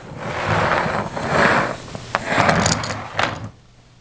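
A toy train being pushed along a surface, its wheels rumbling and scraping in several short swells that stop about three and a half seconds in.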